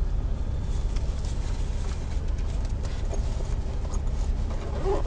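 Daihatsu Ayla 1.0 three-cylinder engine idling, a steady low rumble heard inside the car's cabin.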